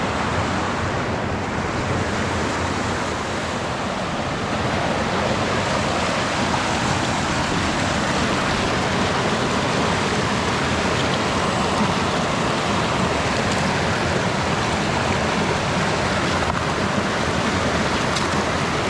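Mountain creek water rushing steadily, an even, loud rush with no letup.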